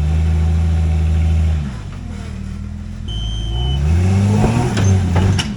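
Jeep Wrangler YJ engine revving under load while rock crawling. The revs are held for about a second and a half, drop back, then climb again about four seconds in, with a few sharp knocks near the end as the Jeep works the ledge.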